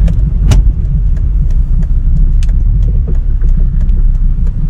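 Used Volvo car driving on the road, heard from inside the cabin: a steady low rumble of engine and road noise with many scattered small clicks and rattles.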